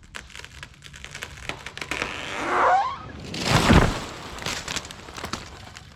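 A tree falling: wood cracking and snapping as it goes over, then a heavy crash about three and a half seconds in as it hits the ground, followed by scattered cracks of breaking branches.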